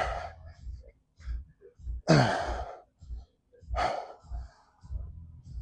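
A person breathing out hard with a voiced grunt about every two seconds, each breath dropping in pitch: exertion breaths on lifting reps. Softer low thuds sound between the breaths.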